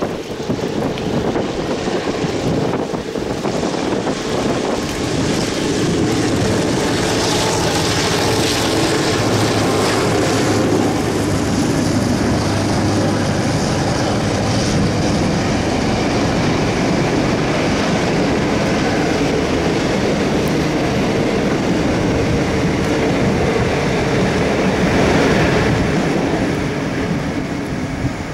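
Heritage passenger train hauled by Victorian Railways diesel-electric locomotives passing close by: the locomotives' engines go by first, then the long rake of carriages rolls past with wheels clattering on the rails. The sound is loud and continuous throughout, swelling slightly near the end.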